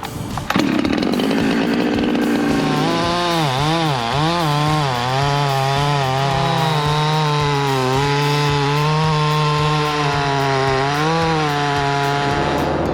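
Chainsaw running at high revs. From about 3 s in its pitch dips and recovers several times as it bogs under load in the cut, then it holds steady at full speed until it dies away near the end.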